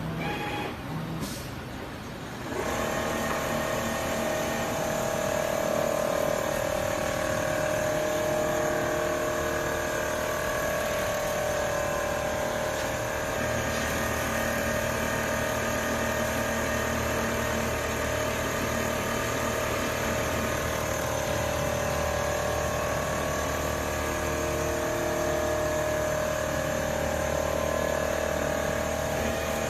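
Single-head quilting machine running steadily, its motor giving a continuous whine made of several held tones. A few clicks come first, and the full running sound comes in about two and a half seconds in.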